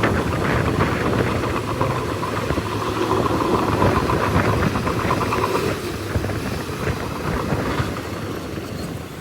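Bulldozer's diesel engine running with a dense rattling, clanking clatter over it; the sound eases off about two-thirds of the way through and again near the end.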